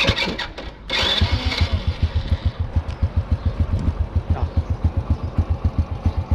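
100 cc clutchless underbone motorcycle engine started: a short burst, then it catches about a second in and settles into an even idle, a rapid low beat.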